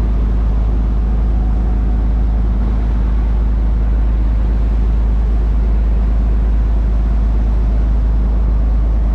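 Steady low rumble of a boat under way, unbroken throughout.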